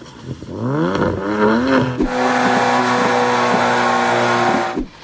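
Car engines revving hard. One climbs steeply and eases back over the first two seconds. After a cut, another is held at high revs with a few sharp pops, then stops abruptly near the end.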